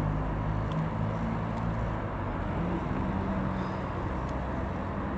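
Engines of a Class 158 diesel multiple unit running as it pulls away. A steady low drone whose pitch drifts and steps up a little partway through.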